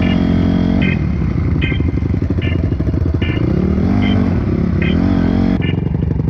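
Motorcycle engines revving, rising in pitch, holding and dropping back, twice. A short high tick repeats about every 0.8 seconds.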